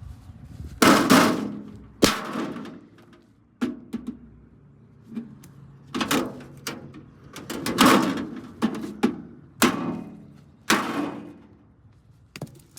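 A Hamilton Beach microwave oven's sheet-metal casing being handled, giving about ten irregular knocks and clanks, each with a short metallic ring.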